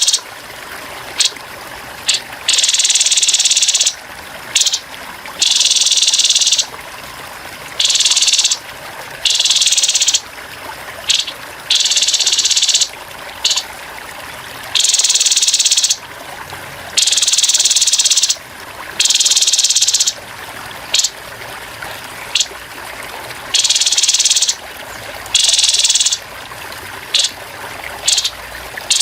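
Grey-headed babbler giving harsh, rapid rattling calls in bursts of a fraction of a second to about a second and a half, repeated every second or two, over a steady trickle of running water.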